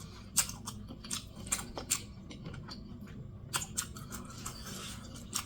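A person chewing food close to the microphone, with a scattering of sharp, wet lip smacks and mouth clicks.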